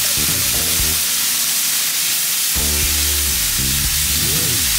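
Vegetables and herbs sizzling as they fry in butter in a pan, with a spatula stirring them near the end. Background music with low held notes plays over the sizzle.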